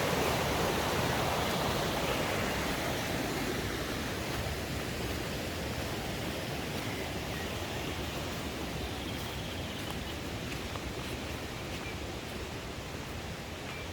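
Mountain stream rushing over rocks, a steady rush of water that slowly fades.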